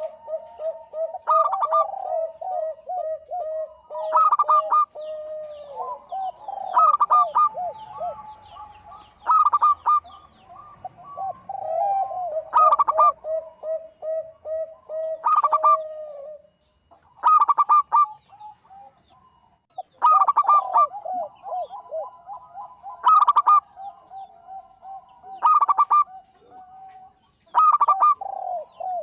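Zebra doves (perkutut) cooing steadily. A loud call comes back about every two and a half seconds, with runs of rapid, softer rolling coos between the calls.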